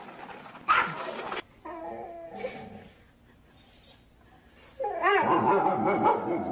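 A dog barking once, then whining, with a long, loud whine that wavers in pitch near the end.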